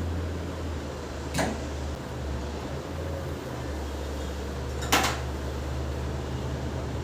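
Two sharp kitchen knocks, about three and a half seconds apart, the second louder, over a steady low hum.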